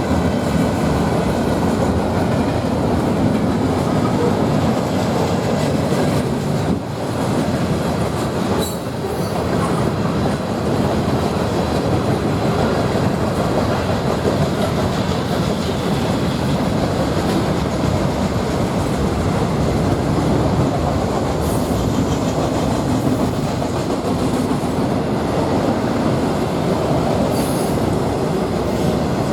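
Norfolk Southern freight train rolling past, a steady rumble and rattle of wheels on rail, with a few faint brief wheel squeals.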